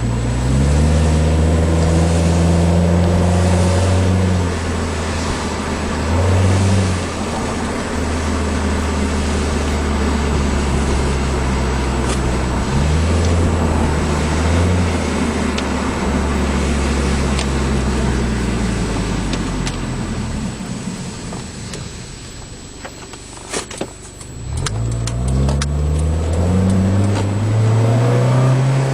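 2005 Acura TSX's 2.4-litre K24A2 four-cylinder breathing through a Fujitsubo aftermarket exhaust, high-flow catalytic converter and headers, pulling under acceleration while driving. The engine note climbs and steps down at the automatic's upshifts, then holds steady. About two-thirds through it eases off and goes quieter, then climbs again near the end.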